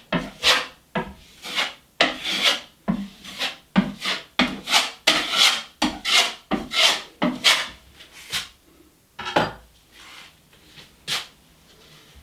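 Quick rasping strokes against the drywall patch, about two a second, stopping about nine seconds in with one more stroke near the end.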